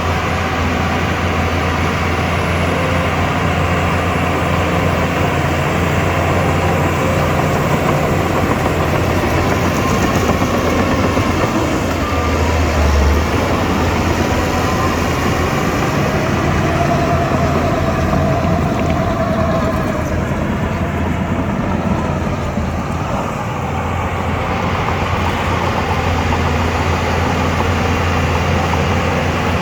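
Shantui DH17 crawler bulldozer's diesel engine running steadily under load as it works, easing briefly about twenty seconds in before picking back up.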